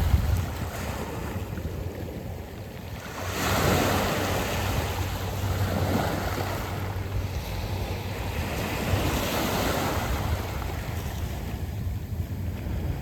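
Waves washing up a beach of smooth round pebbles: a wave surges in about three and a half seconds in and another swells around nine seconds, over a low wind rumble on the microphone.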